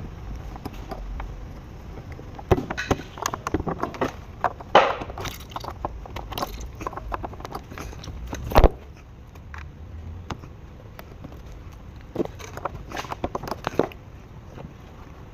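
Irregular metallic clicks, clinks and knocks of hand tools on engine parts, in two busy spells, with one loud sharp knock about eight and a half seconds in.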